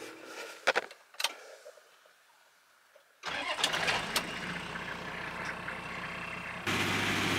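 A couple of sharp clicks, then a Toyota Land Cruiser's engine starting and running steadily. A little over a second before the end the sound turns abruptly louder and fuller.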